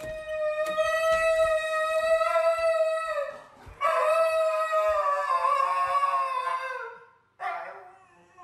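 Siberian husky howling: two long drawn-out howls, the second sliding down in pitch at its end, then a short third howl.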